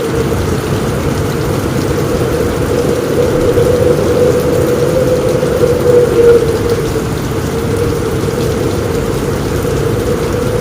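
Heavy rain drumming steadily on a roof.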